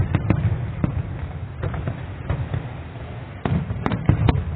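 Fireworks display: a rapid string of sharp bangs and crackles over a continuous low rumble, with a dense cluster of reports at the start and another from about three and a half seconds in.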